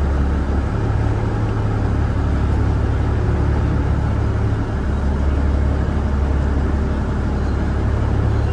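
A river ferry's engine running steadily underway: a low, even drone with a rush of water and wind noise over it.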